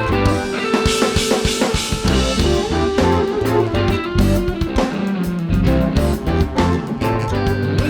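Live rock band playing an instrumental passage, guitar over a drum kit and bass, with no vocals.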